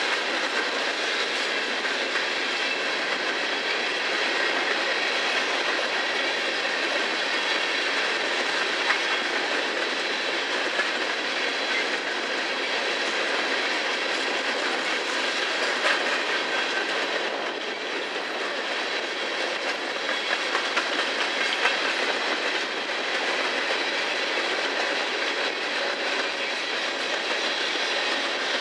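Freight train of open-top coal cars rolling past close by: the steady rumble and hiss of steel wheels on rail, with a few clacks as wheels cross rail joints. A faint high ringing runs underneath.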